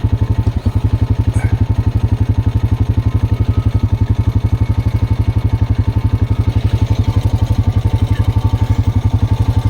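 ATV engine running steadily under way, an even low pulsing of about a dozen beats a second.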